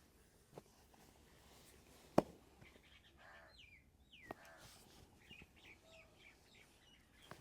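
Faint bird chirps, with short high calls falling in pitch between about three and six seconds in. A few sharp single clicks sound over them, the loudest about two seconds in.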